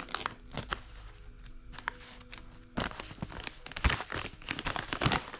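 Close-up handling noises: an irregular run of crackles, taps and rustles, with a few sharper knocks about four and five seconds in.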